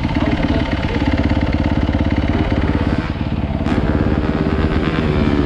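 Dirt bike engine running steadily, its firing pulses coming fast and even.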